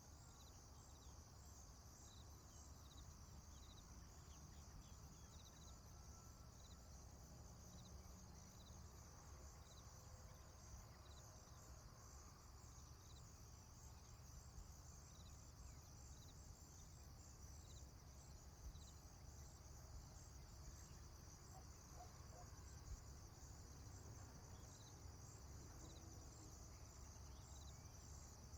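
Faint, steady insect chorus, high-pitched, with a short chirp repeating about once a second, over a low rumble.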